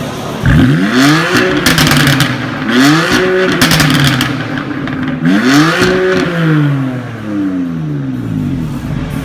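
BMW F80 M3's twin-turbo inline-six, breathing through an AC Schnitzer aftermarket exhaust, revved three times in quick succession. Each time the pitch rises and falls back, with crackling as the revs drop.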